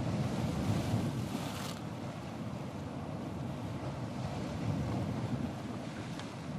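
Ocean surf: a steady low rumble of waves, with one wave washing in as a brief hiss in the first couple of seconds, and wind buffeting the microphone.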